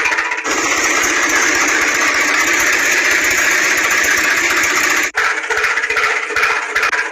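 An engine running steadily with a rattle, strongest in the upper-middle range with little deep bass. The sound changes abruptly about half a second in and drops out for an instant about five seconds in.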